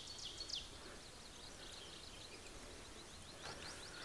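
Faint bird chirps: runs of quick, high, falling notes, near the start and again near the end, over a quiet outdoor hiss.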